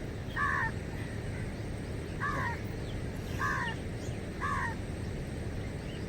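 A crow cawing four times, short harsh calls about a second or two apart, over a steady low background rush.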